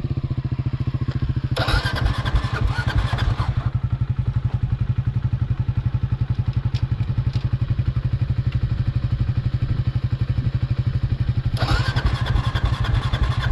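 A single-cylinder-style motorcycle engine idling with an even, steady low beat. Twice, for about two seconds each, a louder rushing noise rises over it.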